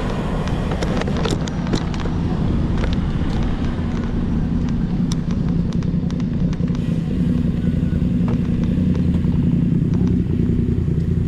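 Steady low rumble of a motor vehicle engine running nearby, with scattered light clicks.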